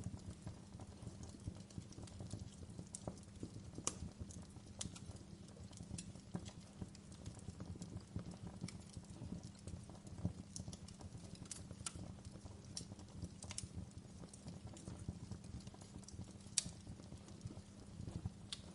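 Wood fire burning in a fireplace: a low, steady rumble of flames with irregular sharp crackles and pops, the loudest pops about four seconds in and near the end.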